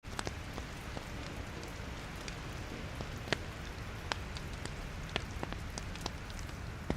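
Logs burning in a fireplace: a steady hiss and low rumble of the flames, broken by frequent sharp crackles and pops, a few of them louder.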